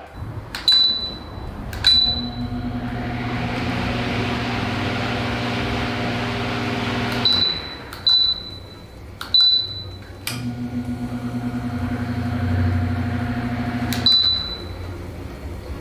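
Ceiling fan's remote receiver beeping sharply each time a command is sent, six beeps in all, while the fan motor starts and runs with a steady electric hum for a few seconds, stops on a beep, then runs again and stops on another beep, as the fan settings are tested.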